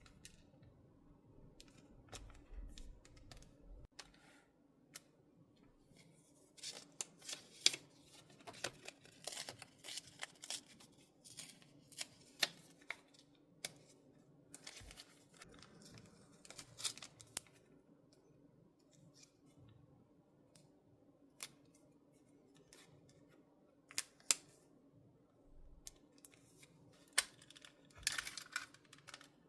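Scissors snipping paper in runs of short crisp cuts, with pauses between the runs.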